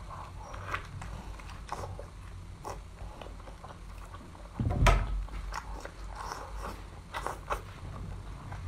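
A person biting and chewing seafood close to the microphone, with scattered crunchy clicks. There is one louder thump about five seconds in.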